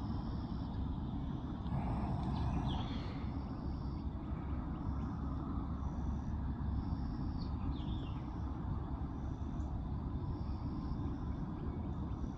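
Small birds chirping repeatedly, with a couple of quick falling calls, over a steady low rumble.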